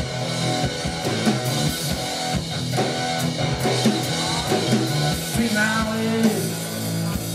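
Live rock band playing an instrumental passage, with guitar and a drum kit.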